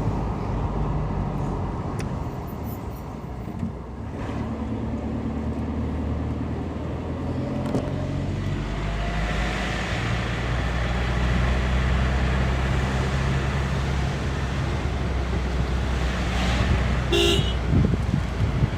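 A moving car's engine and road noise, a steady low drone. A short car horn toot sounds near the end.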